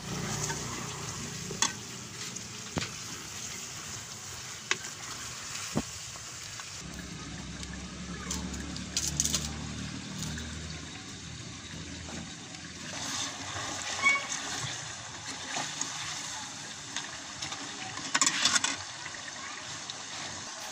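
Chicken pieces sizzling as they fry in oil in a metal pot. A metal ladle stirs them, with sharp clinks and scrapes against the pot every few seconds and a cluster of knocks near the end.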